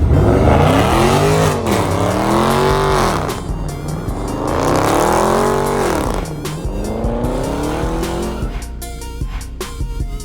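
A car engine revving hard, its pitch climbing and falling several times as it slides, with tyres squealing through the first few seconds. Background music runs underneath and takes over near the end as the engine fades.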